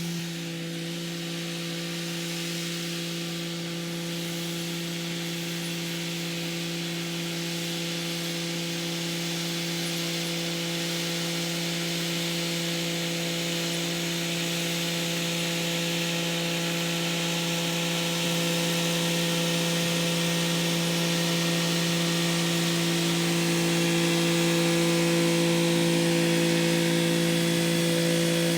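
Kubota SL35 tractor's diesel engine running steadily under load while rotary tilling, a constant drone with a hiss over it that slowly grows louder.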